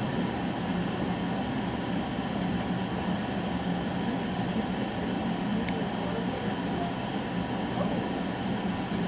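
West Coast Express commuter train running steadily, heard from inside a passenger coach: an even low rumble of wheels on rail and running noise.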